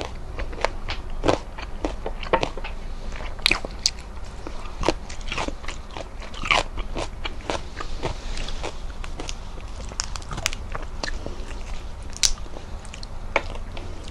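Close-miked crunching and chewing of breaded fried calamari and fried salmon: irregular crisp crackles and clicks, some sharp and loud, over a faint steady low hum.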